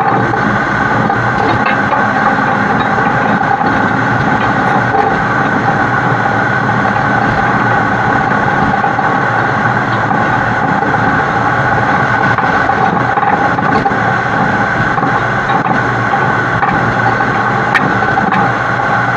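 Heavy-haul truck running, heard from a camera mounted on its side: a loud, steady mix of engine and road noise with no break.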